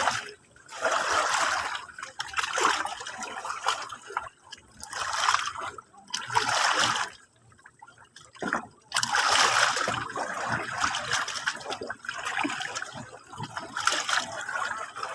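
Sea water washing and splashing in irregular surges, each lasting a second or two, with short quieter lulls between them.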